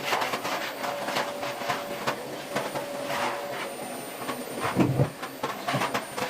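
Household cleaning sounds: a run of quick rubbing strokes and small clicks, with a dull thump about five seconds in.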